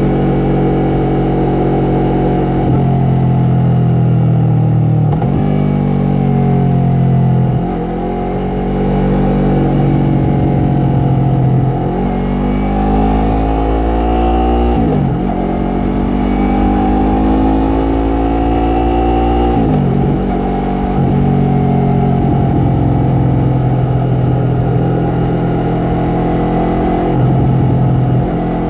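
Yamaha MT-03 parallel-twin engine and exhaust on the move, revs climbing and falling again and again, with several sudden drops in pitch between pulls, the sound of gear changes and throttle roll-offs.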